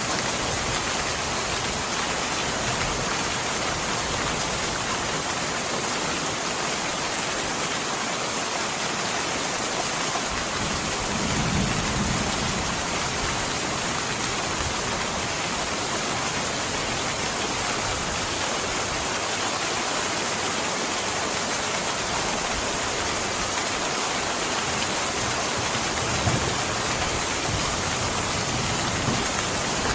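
Steady heavy rain, an even hiss of falling water. A low rumble swells for a couple of seconds about a third of the way in, and a couple of brief pops come near the end.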